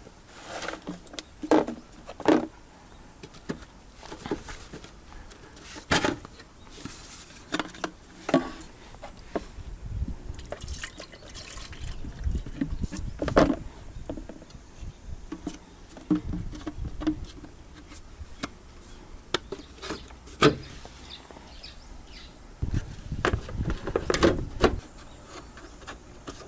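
Scattered clicks, clunks and rustles of hands working on plastic and metal body parts, with a few louder knocks.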